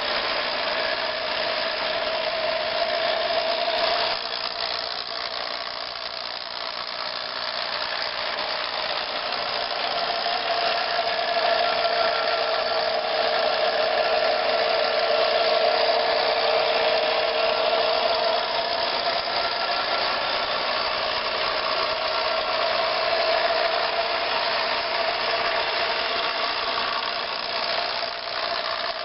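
A train running, with a steady mechanical whine whose pitch drifts up and then back down in the middle.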